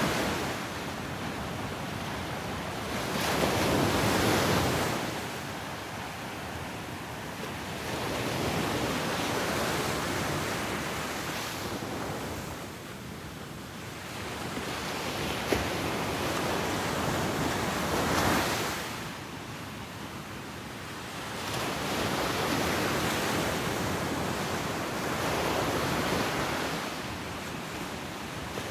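Ocean surf on a beach: waves breaking and washing up the sand, the noise swelling and easing every four to six seconds.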